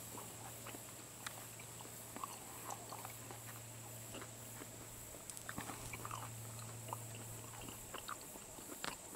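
A person chewing a mouthful of pan-fried pastry pocket pie: faint, irregular soft crunches and clicks over a low steady hum.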